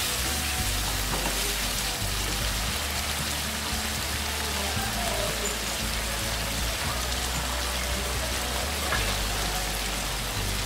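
Chicken in a yogurt masala frying in a wok: a steady sizzling hiss as the sauce is cooked down (bhuna), with a wooden spatula stirring at the start.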